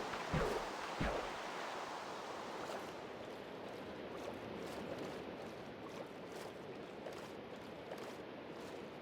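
Steady outdoor rain noise with faint scattered drop ticks, and two low thumps in the first second or so.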